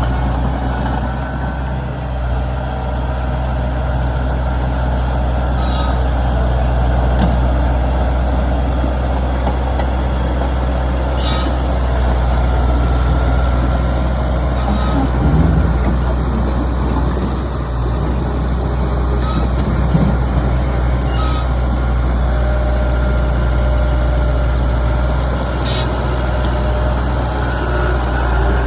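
Komatsu D31PX bulldozer's diesel engine running steadily with a deep, even hum, with a few short sharp clicks scattered through it.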